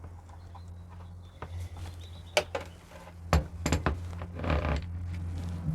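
Metal parts of a vintage hand drill being handled during reassembly: a few sharp clicks and a short rattle over a steady low hum.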